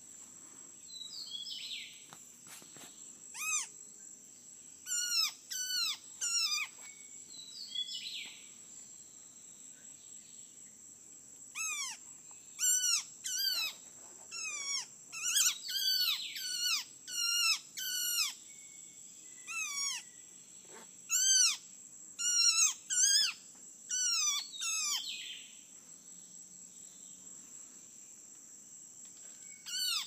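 A bird tangled in a mist net, being worked free by hand, giving loud distress calls: short falling notes, one at a time or in quick runs of two to four. A steady high insect drone runs underneath.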